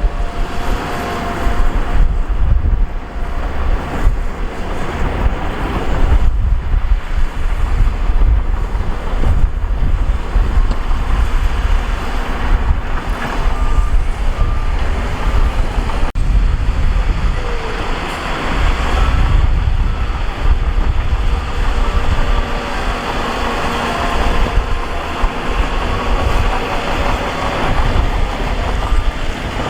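Heavy earthmoving machinery at work, such as a bulldozer and a wheel loader pushing rock and soil: diesel engines running with a loud, steady, deep rumble.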